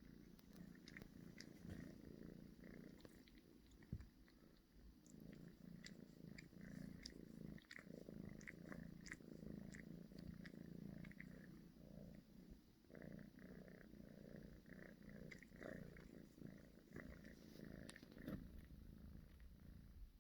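Kitten purring softly and steadily, with faint small clicks of her tongue licking as she grooms herself.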